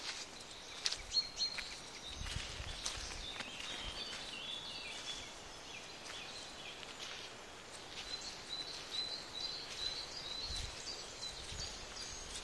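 Woodland birds singing: a warbling phrase a few seconds in, then a run of short repeated high notes later on. Underneath are footsteps on a dirt path, low rumbles, and a few sharp knocks about a second in.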